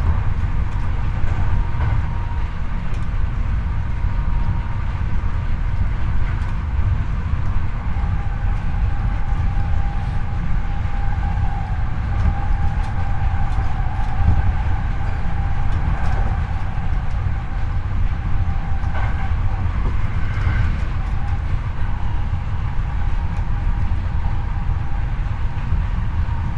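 Hankyu 8300 series electric train running on the rails, heard from the car floor above the bogie: a steady rolling rumble of wheels and bogie with a faint steady whine from the Toyo IGBT-VVVF-driven traction motors.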